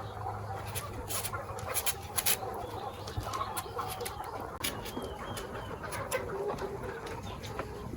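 Chickens clucking, with many short sharp clicks scattered through and a steady low hum underneath.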